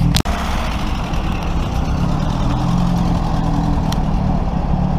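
Classic car engine idling steadily, with a momentary dropout about a quarter second in.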